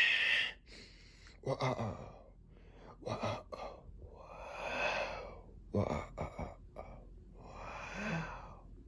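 Breathy vocal sounds: a sharp gasp at the start, a few short voiced noises, then two longer hissing breaths, about four seconds in and near the end.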